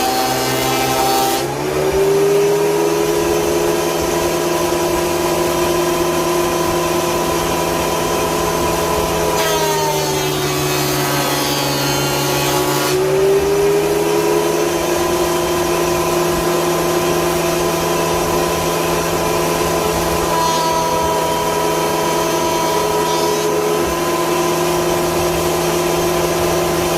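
Craftsman electric planer motor running with a steady whine. Twice, near the start and again from about ten to thirteen seconds in, the pitch sags and a rougher cutting noise joins it, as the blades take wood, and then the motor climbs back to full speed.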